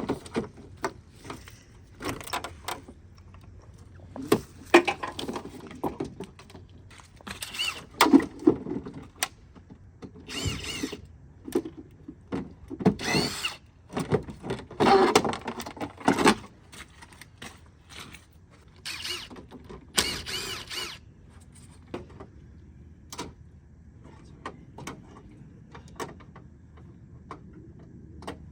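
Tools at work pulling a radiator from a scrapyard pickup: short whirring runs of a power driver between scattered metal clicks and clanks of fasteners and parts.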